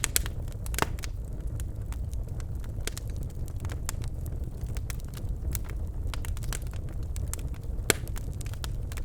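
Birchwood fire burning in a fireplace, crackling with irregular snaps and pops over a steady low rumble of the flames; the sharpest pops come about a second in and near the end.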